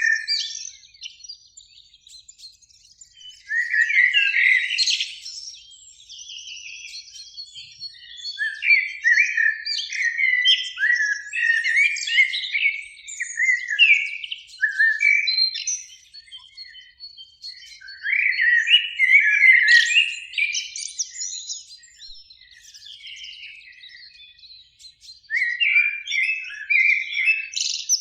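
Eurasian blackbird singing: warbled phrases a few seconds long, each followed by a short pause.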